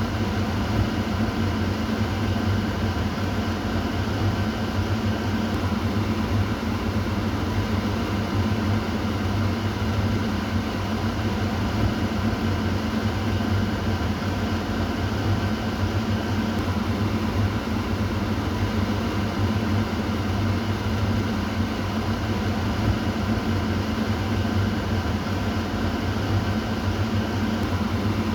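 Kitchen exhaust fan running steadily: a constant whooshing airflow with a low motor hum.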